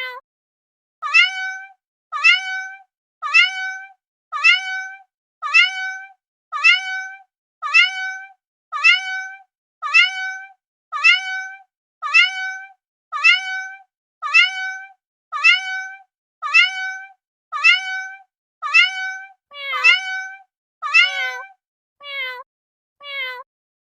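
Cat meowing over and over: the same meow repeats about once a second, with silence between, some twenty times. Near the end, shorter and lower meows follow a little faster.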